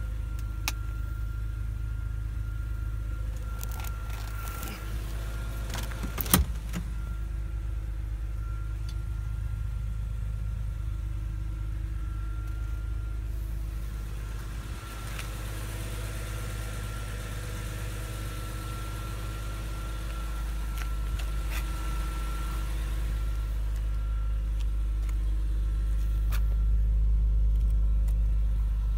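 2001 BMW M3's straight-six engine idling steadily with a low rumble, growing a little louder near the end. Scattered clicks, with a sharp knock about six seconds in.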